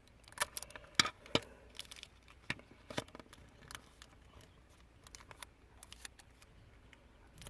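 Decorative paper and tape being handled while wrapping a snack-size candy bar: scattered small clicks and short rustles, busiest in the first few seconds, then sparse.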